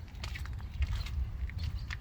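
Footsteps crunching on a gritty surface, with a string of irregular short crunches and clicks, over a steady low rumble of wind on the microphone.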